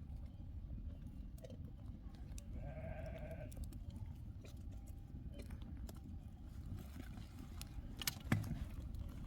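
A sheep bleats once, a short wavering call about three seconds in, over a steady low rumble. A sharp knock comes near the end.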